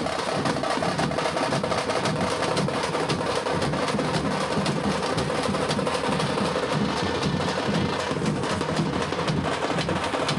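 Tamate frame drums beaten with sticks by a group, a fast, dense rolling rhythm at a steady loud level.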